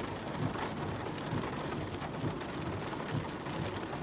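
Heavy monsoon rain pattering steadily on a car, heard from inside the cabin.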